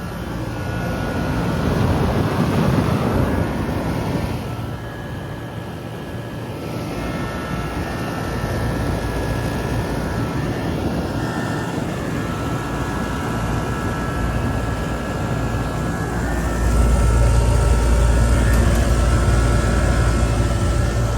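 Air conditioner running: a steady fan rush over a low motor hum, with a few held tones higher up. The low hum grows noticeably louder about three-quarters of the way through.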